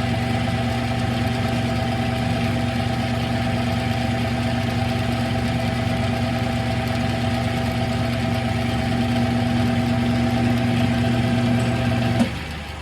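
Smithy 3-in-1 lathe running steadily with a strong motor hum and gear whine, then switched off about 12 seconds in: a click, and the hum cuts out.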